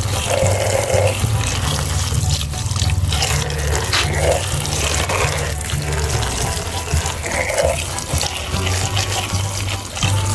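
Water running from a tap and splashing, with background music playing under it.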